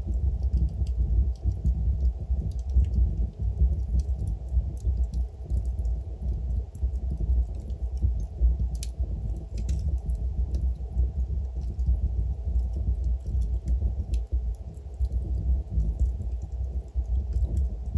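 Wood fire burning in a fireplace: a steady low rumble of flames with frequent small crackles and pops from the logs, one sharper pop about nine seconds in.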